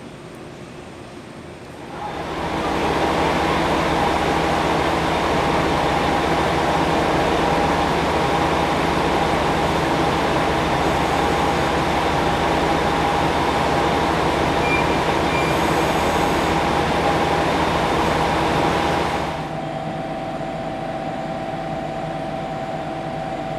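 Electric train running steadily with a loud, even mechanical noise and a few steady tones. It starts about two seconds in and drops to a quieter hum near the end.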